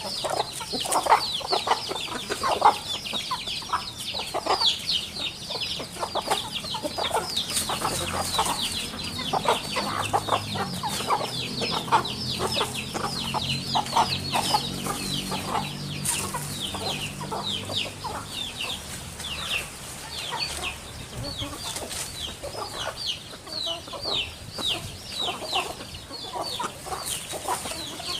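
Chickens clucking, with a dense run of quick, high, downward-sweeping chirps over the clucks.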